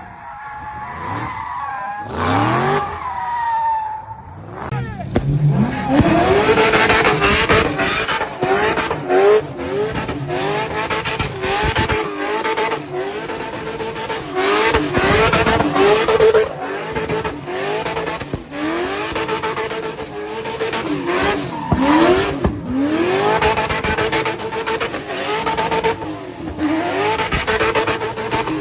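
Drift car's engine revved hard through repeated bursts, its pitch climbing and levelling off again and again, over tyre squeal as the car slides. It starts quieter and grows loud about six seconds in.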